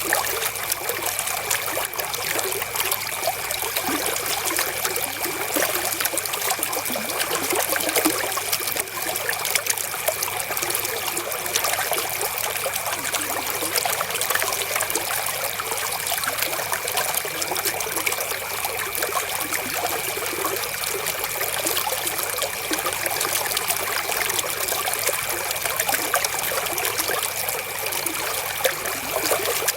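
Flowing river water: a steady, unbroken rush of running water.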